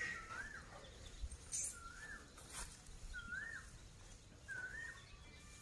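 A bird calling faintly over and over, a short note that rises and falls about once every second and a half, with a couple of soft clicks in between.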